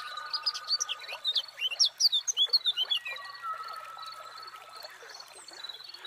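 Birdsong from several birds: a flurry of quick chirps sweeping up and down in the first half, over long held whistles and a high pulsing trill.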